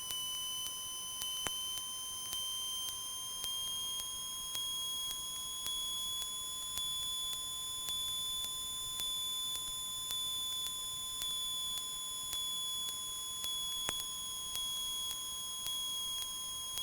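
Aircraft intercom electrical noise with no talk: a high whine slowly rises in pitch and then levels off over a steady lower tone, with faint ticks at a regular pace of about one every 0.7 seconds. This is heard as the Cessna 172 glides in a power-idle emergency descent.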